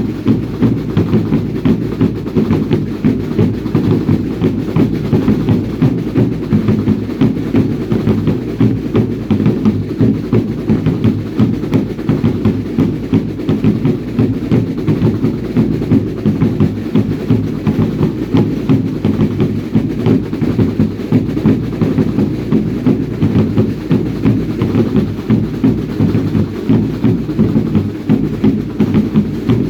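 Drums beaten in a steady, fast rhythm of about three beats a second, deep and unbroken, the percussion of a Chilean baile indio dance band.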